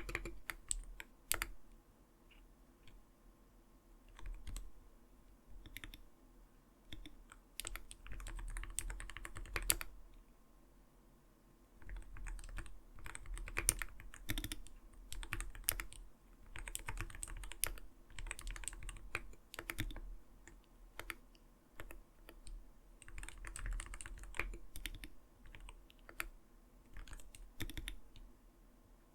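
Typing on an Arbiter Studio Polar 65 gaming keyboard with clear keycaps, a soft, not-too-light "kotokoto" clack of keystrokes. Scattered single keystrokes at first, then fast runs of typing broken by a short pause.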